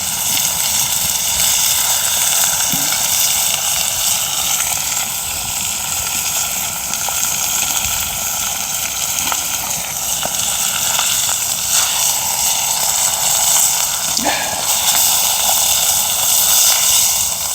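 Sea bass and aged kimchi sizzling in oil on a steel griddle over a wood fire: a steady frying hiss with a few small crackles.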